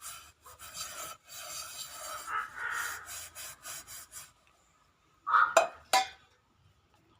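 Scraping, rustling noise with short breaks for about four seconds, then a loud bird call and two sharp shorter calls about five to six seconds in.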